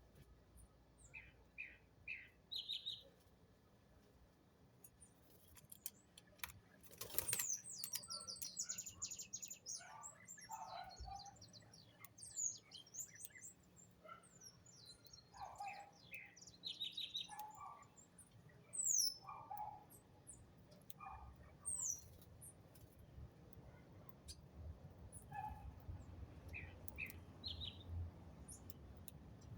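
Small birds chirping and calling: short high chirps and quick falling whistles, scattered throughout and busiest in the middle, with one sharp click about seven seconds in.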